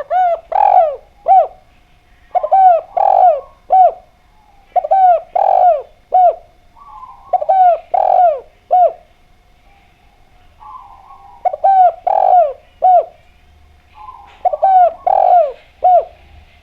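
Spotted dove (derkuku) cooing in repeated phrases, about six of them. Each phrase is a soft opening note followed by three or four loud, falling coos, the last one short; there is a longer pause about halfway through.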